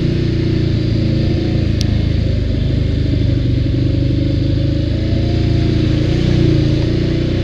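ATV engine running steadily while riding, its pitch wavering slightly with the throttle.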